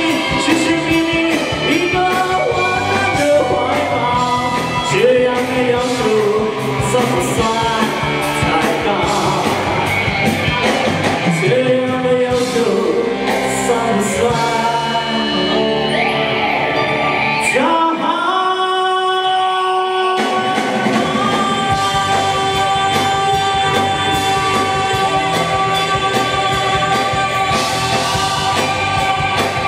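Live band performing a rock-style Mandarin pop song with a lead vocal or melody line. About two-thirds of the way in, the bass and drums drop out for a couple of seconds, then the band returns with long held chords.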